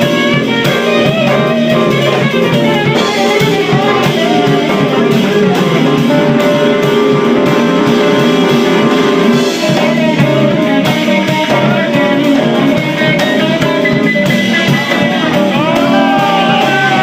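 Live band music, loud and steady, led by guitar over drums.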